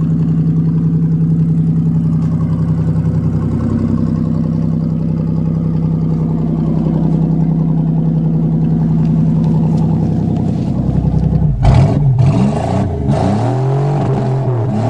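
A car engine idling with a steady note, then from about eleven and a half seconds in revved up and down repeatedly, with a few clattering knocks as the revving begins.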